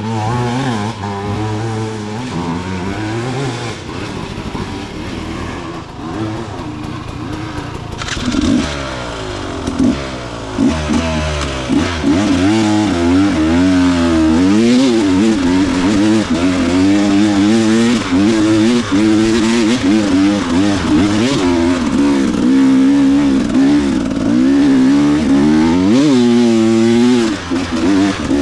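Dirt bike engine revving hard and unevenly, its pitch rising and falling with repeated throttle changes as it climbs a steep hill. It gets louder about a third of the way in.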